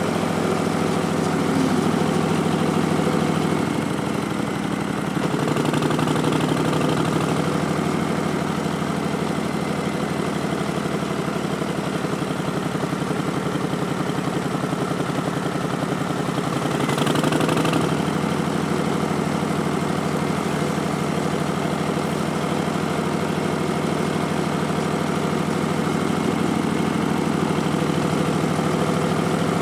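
Harley-Davidson Street Bob's Milwaukee-Eight V-twin, fitted with Vance & Hines Twin Slash slip-on mufflers and an Arlen Ness Big Sucker air intake, running steadily. The engine note shifts about four seconds in, and a brief louder surge comes around seventeen seconds in before it settles again.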